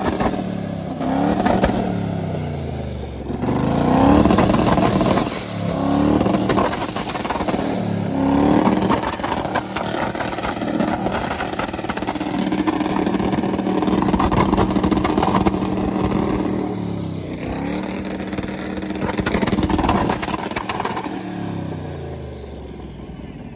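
Twin-turbo limousine engine revving hard several times in quick succession, then held at high revs for several seconds before dropping, with one more rev-up and fall-off near the end.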